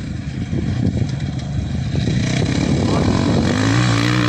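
Engine of an off-road rally machine approaching on the stage, its pitch rising as it revs up near the end.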